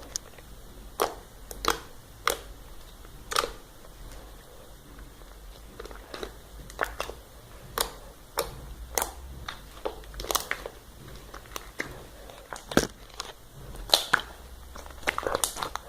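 White base slime being squeezed and poked by hand, giving irregular sharp clicks and pops.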